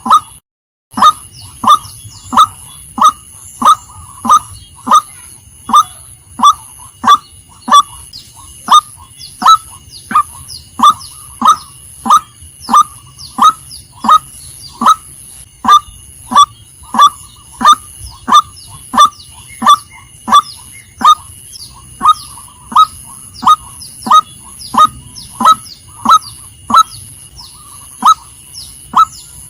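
Female white-breasted waterhen calling: a steady, loud series of short, sharp, honking notes, about three every two seconds, breaking off briefly just under a second in.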